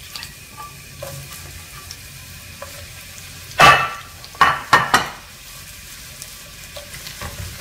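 Sliced bitter melon sizzling in hot oil in a nonstick skillet, a steady light hiss. About three and a half to five seconds in, metal tongs knock and clatter against the pan several times, the loudest sounds here.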